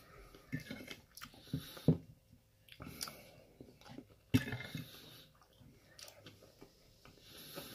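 A person chewing and eating mouthfuls of chicken stir fry with rice, with a few short clicks scattered through.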